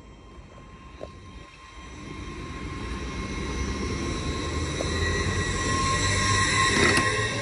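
LNER Azuma Class 801 electric train passing along the platform, its coaches growing louder from about two seconds in. Rail and wheel rumble mixes with a steady high-pitched whine.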